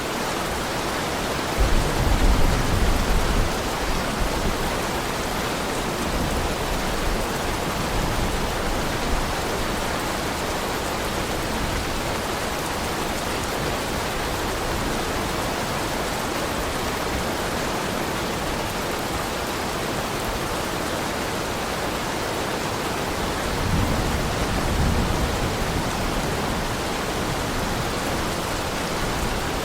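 Heavy rain falling in a steady, even hiss. Low rolls of distant thunder rumble twice: about two seconds in and near the end.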